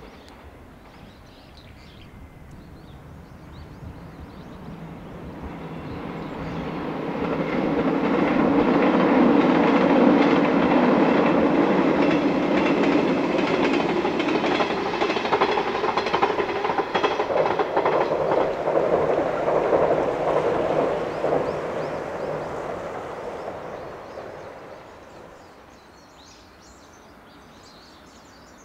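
A multi-car train passing on the rails: its running sound builds over several seconds, holds steady for about fifteen, then fades away.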